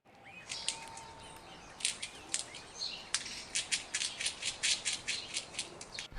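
Bird calling in a series of short, high-pitched clicking chirps, sparse at first and then coming about four or five a second from a few seconds in.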